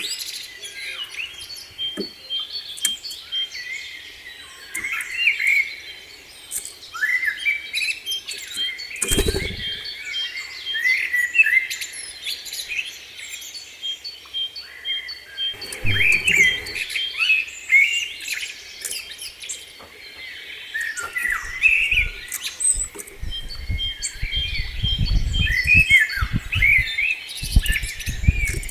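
Small songbirds chirping and calling with many short, quick notes and a repeated rapid ticking note. Low rumbling bursts break in a few times, most often in the last third.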